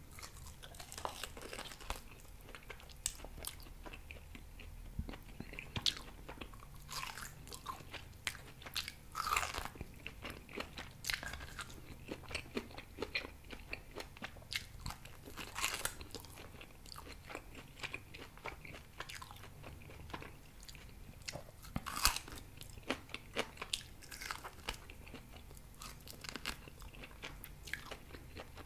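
Close-miked biting and chewing of grilled pork ribs, tearing the meat off the bone, with many short sharp clicks and crunches throughout.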